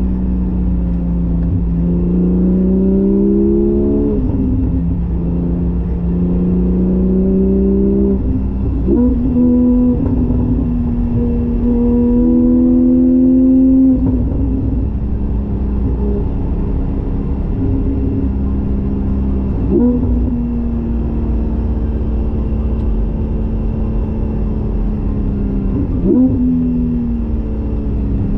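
Porsche 718 GTS 4.0's flat-six engine through a Kline stainless straight-pipe and muffler exhaust with the valves open, driven on the road, its note rising and falling with throttle and breaking sharply at several gear changes.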